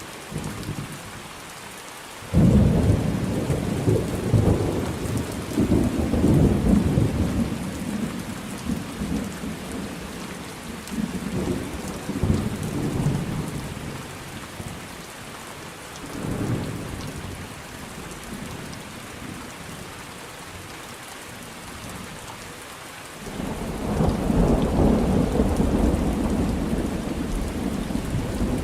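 Thunderstorm: steady heavy rain with rolling thunder. A rumble breaks in sharply about two seconds in and rolls on for several seconds, a weaker one comes around the middle, and another builds near the end.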